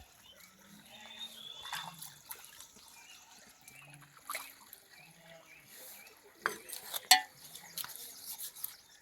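Water dripping and trickling, with scattered small clicks and knocks; the loudest is a sharp click about seven seconds in.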